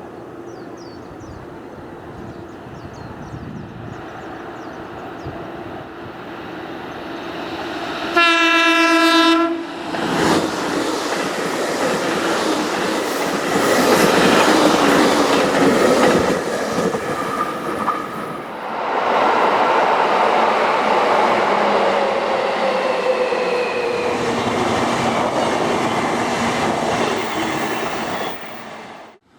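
Fukuoka City Subway Nanakuma Line train gives a short horn blast about eight seconds in, then pulls out of the station. Its linear-motor drive and running noise build up loudly as it passes, with a whine that falls slowly in pitch.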